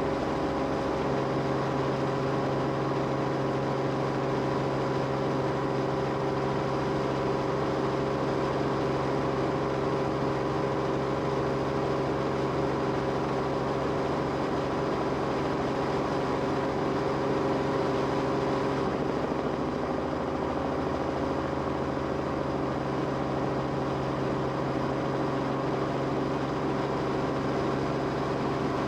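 Steady engine drone heard from inside an aircraft cabin: a constant hum with several held tones that shift slightly about two-thirds of the way through.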